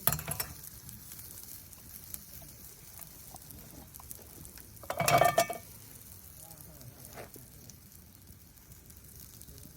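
Campfire burning with scattered faint crackles, and one brief louder sound about five seconds in.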